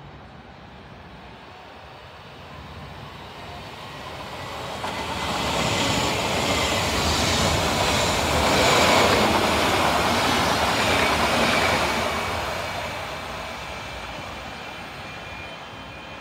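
Red S-Bahn electric multiple unit passing close by: wheels rumbling on the rails with a faint high whine, growing louder from a few seconds in, loudest in the middle and fading away near the end.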